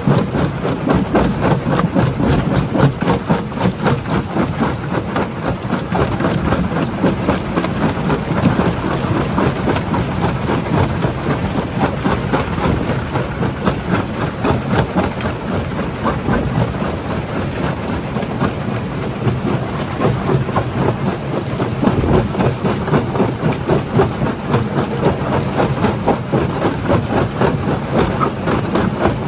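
Rock crusher running under load, with a steady machine drone and a continuous rattle of stones knocking and clattering as they are broken.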